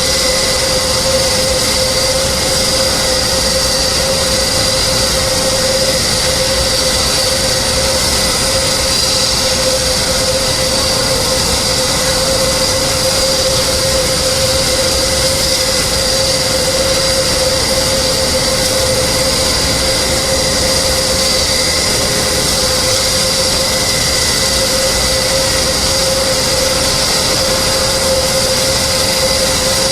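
Aircraft jet engine running steadily: a constant high whine over a loud, even rush of noise, unchanging throughout.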